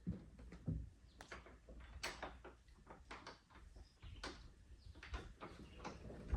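Irregular light knocks and clicks, some with a dull thump, from things being handled and set down.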